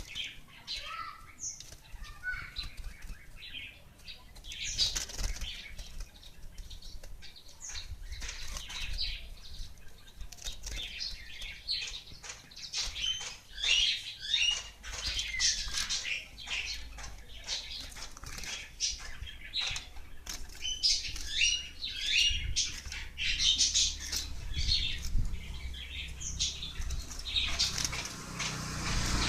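A small bird, a gelatik wingko, fluttering its wings in quick bursts and giving many short, high chirps at irregular intervals.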